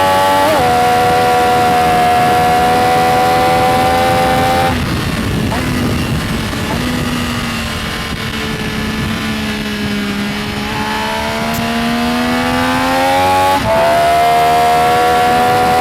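Benelli Tornado Tre 900's inline three-cylinder engine at high revs, shifting up about half a second in. The throttle closes about five seconds in and the revs fall low for several seconds. The engine then accelerates with rising revs and shifts up again near the end.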